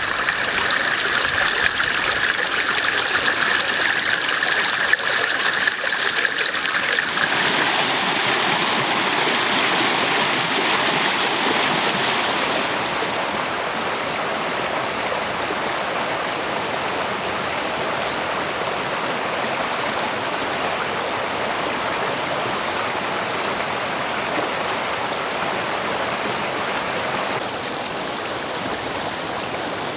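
A forest stream running over rocks: a steady rush of flowing water. A steady high-pitched drone sits over it for the first several seconds. The sound changes abruptly about seven seconds in and drops a little near the end.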